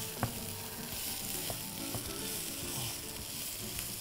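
Minced beef and onions sizzling in a frying pan as they are stirred with a plastic spatula, with a couple of light knocks of the spatula against the pan, the first shortly after it begins.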